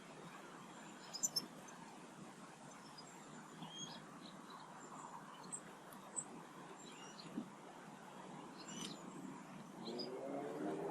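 Faint, scattered short chirps and calls of small garden birds over a quiet outdoor background, with a few sharp clicks, the loudest about a second in. Near the end a low, rising whine begins.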